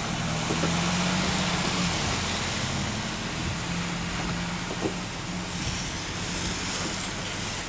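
A car engine running low and steady, with a constant hiss of rain and water around it.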